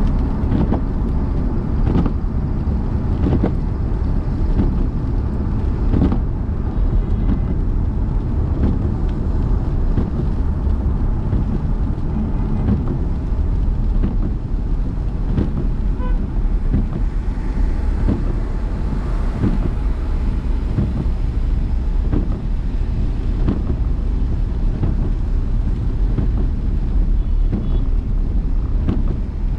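Car driving in city traffic: a steady low rumble of engine and tyres on the road, with a few light knocks now and then.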